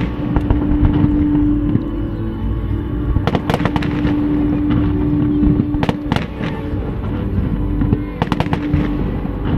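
Aerial fireworks bursting in sharp bangs, with crackling between them: a pair about three and a half seconds in, another pair around six seconds, and a quick cluster near the end. A steady low rumble runs beneath, with music.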